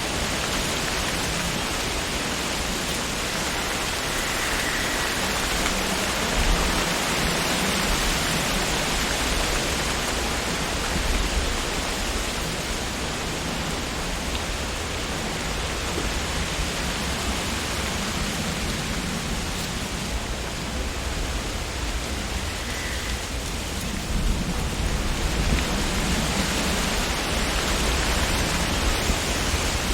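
Wind blowing through tree leaves: a steady rustling hiss that swells in gusts, with a stronger gust building from about two-thirds of the way in.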